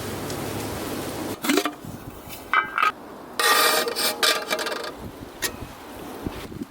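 A series of short scraping, rubbing and clinking handling sounds, with a longer, louder scrape about three and a half seconds in.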